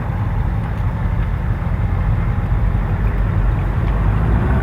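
Car engine running, a steady low rumble with no distinct events.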